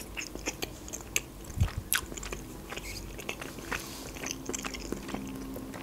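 Close-miked chewing of a mouthful of boiled meat dumplings (pelmeni): a string of soft wet mouth clicks, with one louder click about two seconds in.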